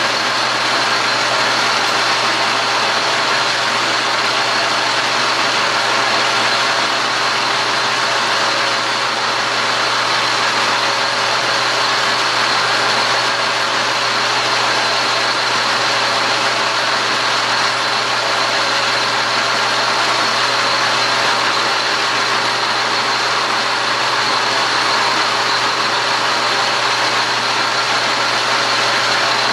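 Metal lathe running steadily, its motor and drive giving an even hum with a fixed high whine, unchanged throughout.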